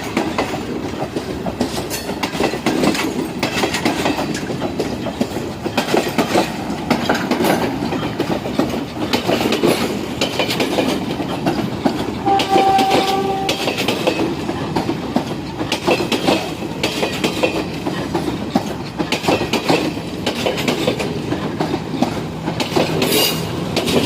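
Repowered Class S9 diesel multiple unit train running, its wheels clicking steadily over the rail joints. A short horn blast sounds about halfway through.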